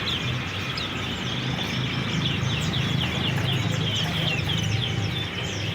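Many caged songbirds chirping together, quick short falling chirps several a second, over a steady low hum.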